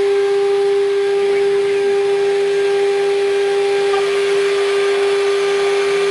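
CNC router spindle running at a steady high whine while its bit cuts acrylic sheet, with a hiss under the tone. A fainter overtone changes pitch about four seconds in.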